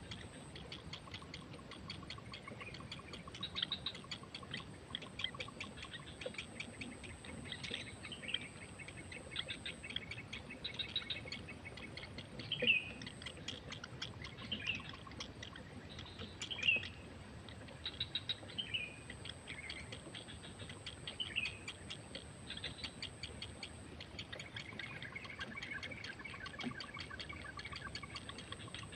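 Birds chirping and calling: short down-slurred whistles and chirps, with dense rapid ticking clicks throughout, a thin steady high whine behind them, and a faster repeated call near the end.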